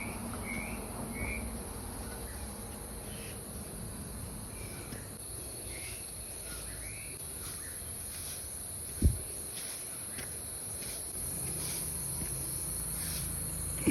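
Steady high-pitched drone of insects, with a few short bird chirps scattered through it. A single sharp thump about nine seconds in.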